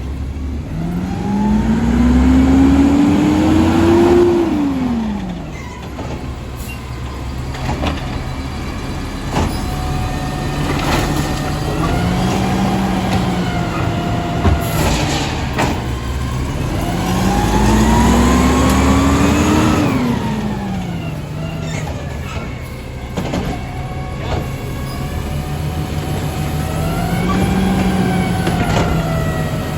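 Garbage truck's diesel engine revving up in long rising pulls and dropping back to idle, twice strongly and twice lightly, the rev-ups typical of a garbage truck powering its hydraulics. A couple of sharp knocks sound midway.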